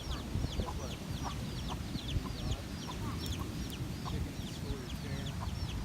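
Many birds chirping at once: a continuous stream of short, high, falling chirps, several a second, over a steady low rumble.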